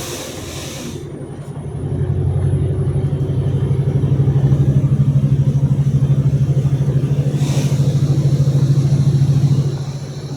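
Car engine running with a low, rapidly pulsing drone that swells about two seconds in, holds steady, and eases off near the end. Short bursts of hiss come at the start and again about three quarters of the way through.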